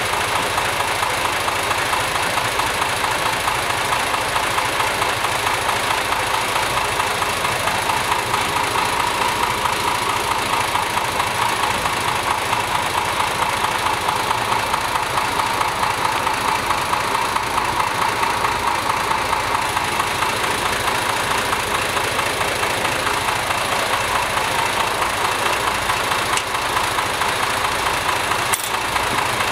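Mercedes-Benz M180 2.2-litre overhead-cam inline six of a 1959 Mercedes 219 Ponton idling steadily, freshly fitted with new crankshaft bearings and balanced.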